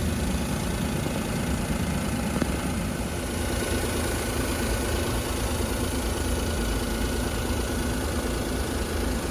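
Daihatsu Hijet kei truck's small three-cylinder engine idling steadily.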